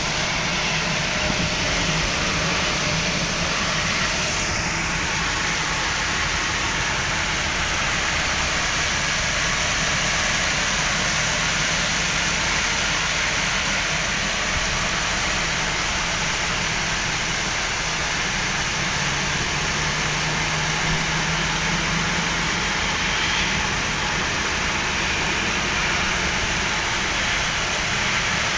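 Heavy rain falling steadily, a continuous even hiss, with a low hum underneath.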